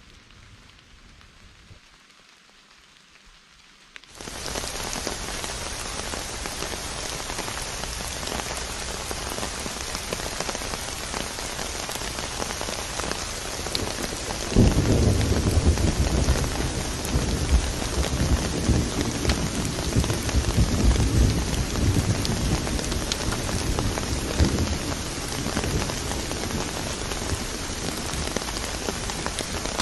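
Heavy rain pouring down, cutting in suddenly about four seconds in. From about halfway a deep, uneven rumble joins it and carries on to the end.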